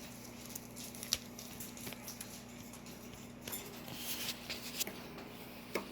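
Scattered soft clicks and short rustles, a few a second and irregular, over a steady low hum.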